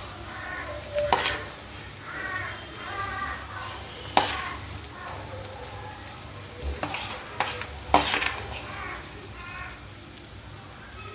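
Egg-and-eggplant mixture sizzling as it fries in oil in a non-stick frying pan. A metal spoon clinks sharply against the pan three times, about 1, 4 and 8 seconds in, as the mixture is spooned in.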